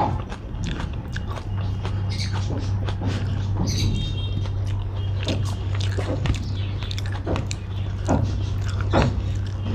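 Close-miked eating of rice and chicken curry by hand: repeated wet chewing and lip smacks, with fingers working the rice on the plate. A steady low hum runs underneath.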